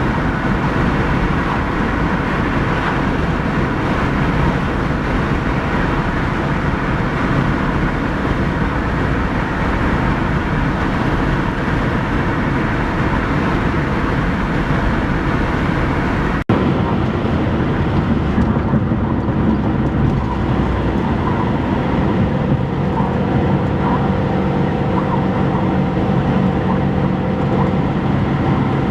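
Steady, loud road and wind noise of a vehicle on the move, cut off for an instant about halfway through, after which a faint steady hum shows through the rush.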